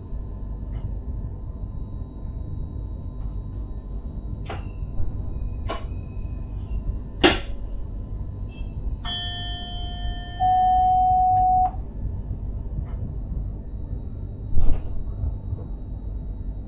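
Inside a sprinter train's driver's cab: a steady low rumble, with several sharp clicks and knocks, the loudest about seven seconds in. Then an electronic beep sounds for about two and a half seconds, stepping up slightly in pitch partway through.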